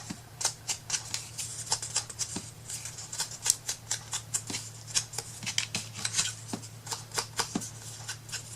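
Scissors cutting: a quick, irregular run of crisp snips, a few a second.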